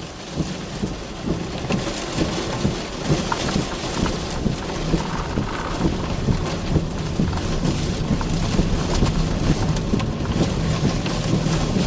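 A vehicle driving in heavy rain, heard from inside the cab: steady engine and road noise with rain pattering on the body.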